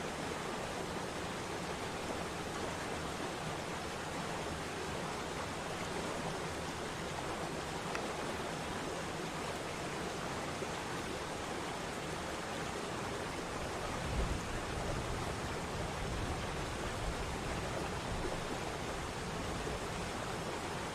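Waterfall rushing with a steady, even roar of falling water, with a brief low rumble about two-thirds of the way through.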